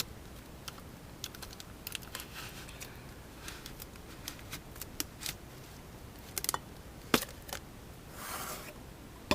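Small cardboard and plastic packaging being handled and opened by hand: scattered sharp clicks and taps, with two brief rustles, one about two seconds in and one near the end.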